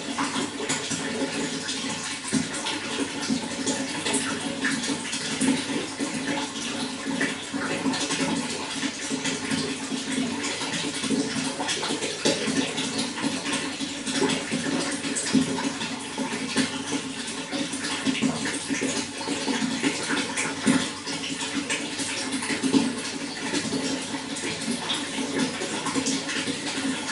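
Running water flowing steadily, with a dense patter of small splashes.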